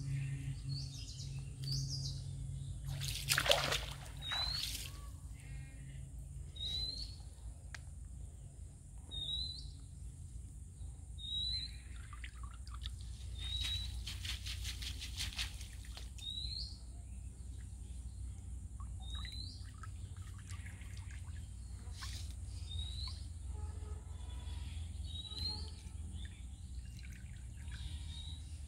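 A bird repeating a short rising chirp every second or two, with water splashing and trickling as a cast net is drawn in through a pond, loudest in a few brief splashes.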